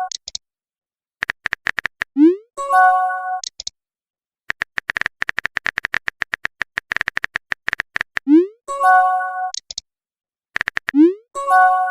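Runs of rapid tapping clicks from a phone keyboard, each followed by a short rising blip and a bright chord chime of a chat message sound. The sequence comes three times.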